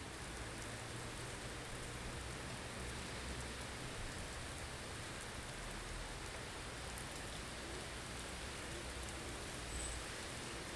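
Blizzard ambience: a steady hiss of wind-driven snow with a low rumble underneath.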